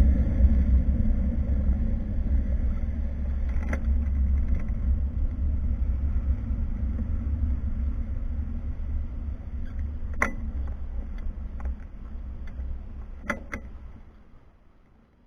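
Wind buffeting and tyre rumble of a moving bicycle on the mic of a rear-facing camera mounted on the bike. It dies away as the bike slows to a stop, with a few sharp clicks and rattles along the way.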